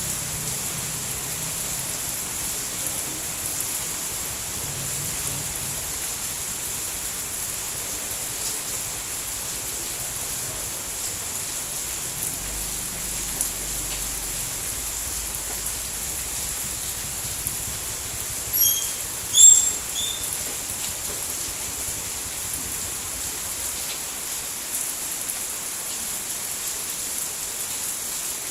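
Steady rainfall, an even unbroken hiss strongest in the high end. About two-thirds through, a couple of short high chirps stand out briefly above the rain.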